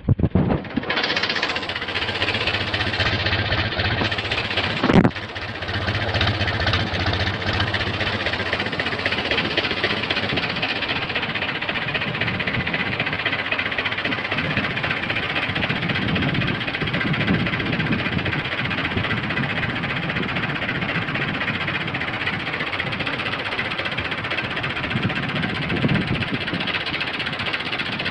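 Diesel engine of a 640 farm tractor running steadily, with a single sharp knock about five seconds in.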